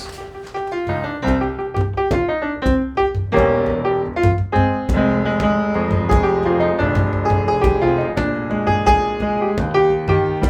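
Piano music: a steady run of struck notes and chords, with no pause.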